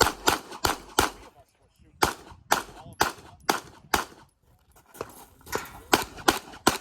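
Semi-automatic handgun fired rapidly in a practical-shooting stage run: about fifteen sharp shots, mostly in quick pairs, with two short pauses between strings.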